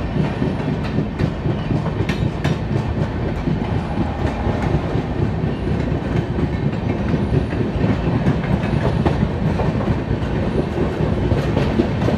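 Magadh Express passenger train running along the track, a steady rumble with scattered clicks of the wheels over rail joints and points.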